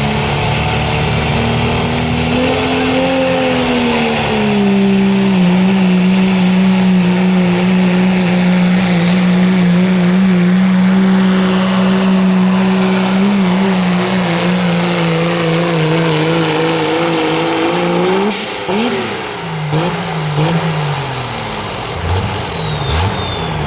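Diesel 4WD pulling truck's engine held at full throttle on a pull, its pitch sagging slightly as it loads down, with a high whistle climbing early on. About 18 seconds in the driver lets off, followed by a few short revs while a high whistle falls away.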